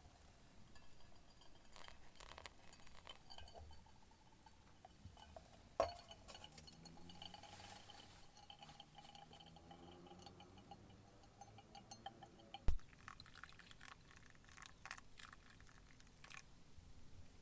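Glass clinking and liquid being poured, with two sharp knocks about six and thirteen seconds in.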